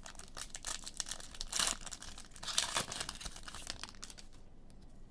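Foil trading-card pack wrapper crinkling as it is torn open and handled: dense crackling, loudest in two stretches, about one and a half seconds in and again from about two and a half to four seconds, then it stops.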